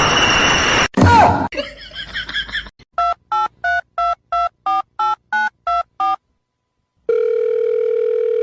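Telephone keypad tones: about a dozen short dialing beeps in quick, even succession, then after a brief pause a steady telephone ringing tone lasting about two seconds. Before this, a loud noisy sound cuts off abruptly about a second in, followed by a short sliding sound.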